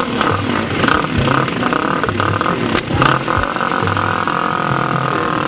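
Dirt bike engine running under load as it is ridden, its pitch rising and falling with throttle changes.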